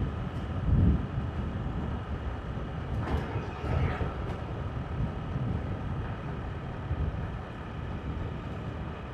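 Motorbike riding along at road speed: a steady engine note under a low, uneven rumble of wind on the microphone, with a louder gust about a second in.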